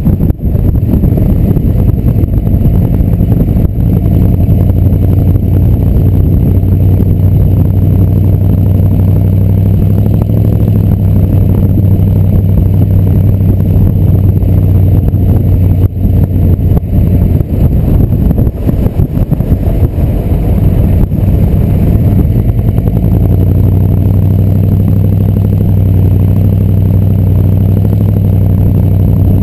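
6.2-litre Detroit diesel V8 of a 1986 Chevrolet C30 dually running through its exhaust stacks, loud and close to the microphone. The steady low note eases off for a stretch in the middle and returns to full strength in the last third.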